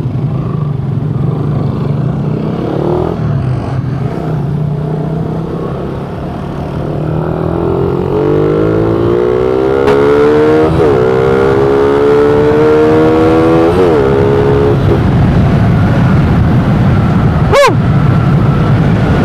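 Suzuki Raider 150 motorcycle's single-cylinder engine through a gutted (kalkal) stock muffler, pulling away and accelerating. The revs climb, drop at a gear change about 11 seconds in, climb again and drop at another shift near 14 seconds, then run steady. A sharp click comes near the end.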